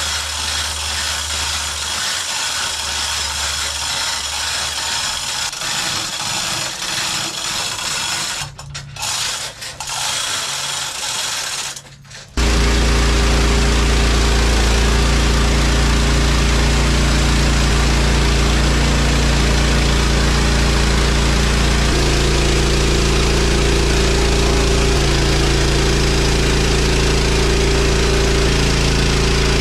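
Steady machine noise with a low hum for about twelve seconds. It then jumps abruptly to a much louder, steady run of a small gasoline engine, most likely the sawmill's, which carries on with a slight change in pitch partway through.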